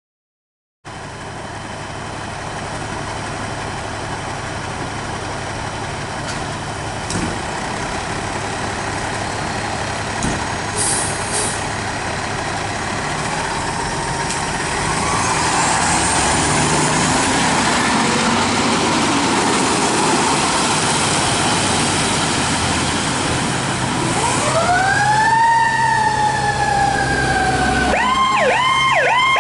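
Fire apparatus pulling out on a call, its diesel engine running and growing louder. A siren winds up in a rising sweep around the middle. Near the end an electronic siren starts a wail and switches to a fast yelp.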